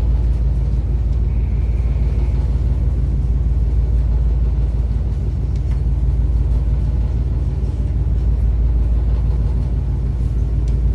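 A ship's engine running steadily: a continuous low, even drone, heard on board.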